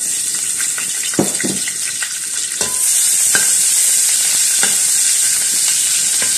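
Lemongrass stalks sizzling in hot oil in a metal wok. The sizzle starts suddenly as they drop in and grows louder about three seconds in, with a metal spatula knocking and scraping against the wok several times as they are stirred.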